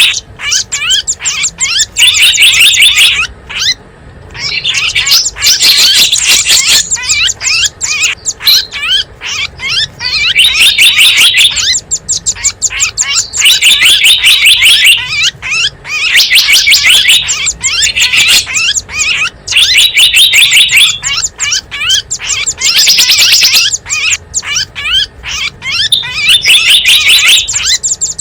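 Recorded small-songbird chirping used as a lure to call in wild small birds: fast, high chirps with louder bursts about a second long that come back every two to three seconds.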